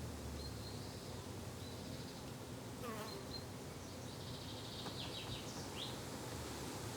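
Garden ambience: a steady low buzzing of insects such as bees or flies, with short bird chirps every second or so, several in quick succession near the end.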